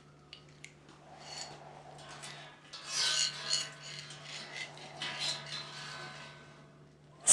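Irregular scraping and rubbing strokes of hand work on a part, with a few light clicks near the start and a faint steady hum underneath.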